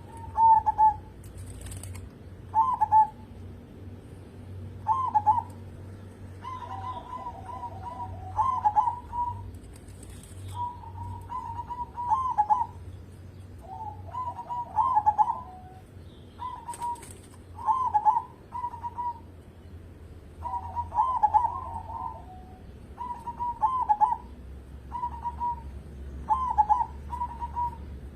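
Zebra dove (perkutut) cooing, repeating its short rolling song phrase about every two seconds.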